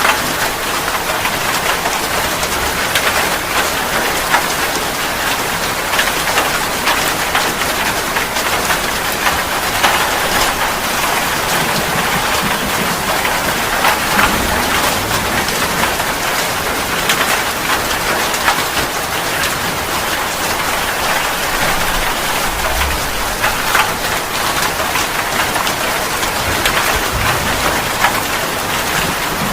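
Steady rain falling, with many separate drops hitting a surface close by.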